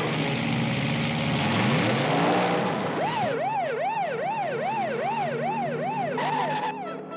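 Cartoon vehicle sound effect: a loud rushing noise over a low engine-like hum, then from about three seconds in a fast up-and-down siren wail, about two swoops a second, that stops shortly before the end.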